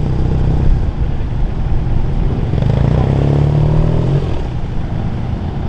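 A car engine pulling away, loudest for about two seconds in the middle, over a steady low rumble of other running engines.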